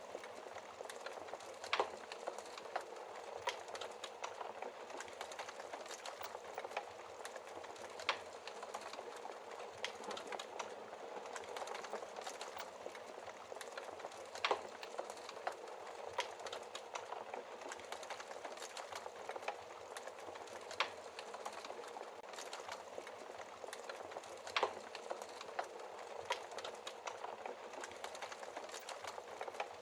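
Wood fire burning with a steady hiss and frequent irregular crackles and pops, a handful of them louder and sharper than the rest.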